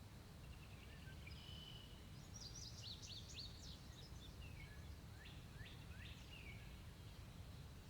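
Small songbirds chirping: a run of quick, high chirps, many sliding down in pitch, busiest in the middle, over a faint steady low rumble.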